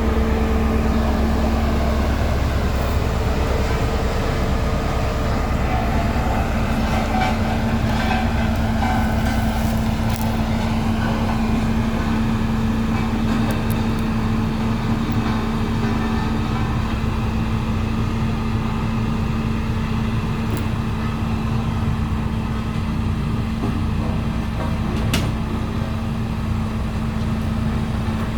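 Heavy diesel road-building machine, a motor grader or vibratory roller, running steadily with a constant hum and low rumble, with a few sharp clicks now and then.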